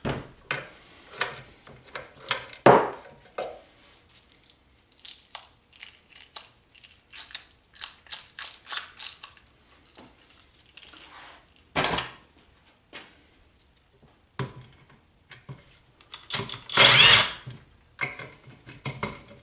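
A power driver runs in short bursts, taking bolts out of a small engine, with many short clicks and knocks of hand tools and metal parts in between.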